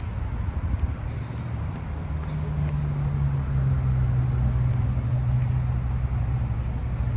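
A 2020 Chevrolet Corvette Stingray's V8 engine idling: a low steady rumble with a hum that comes in about two seconds in and then holds.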